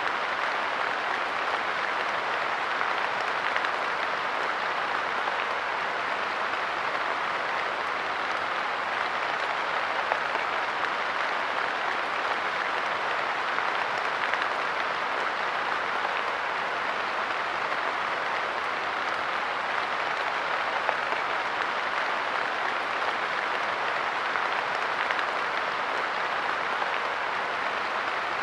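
Steady light rain falling on a park bench, a dense even patter of drops with small scattered taps.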